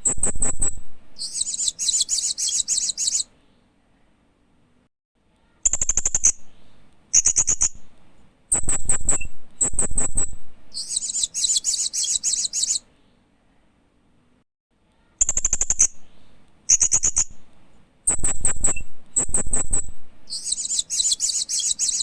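Loriculus hanging parrot chirping in bouts: a run of sharp, shrill high chirps, then a buzzy high trill of about two seconds. The pattern comes three times with short pauses between.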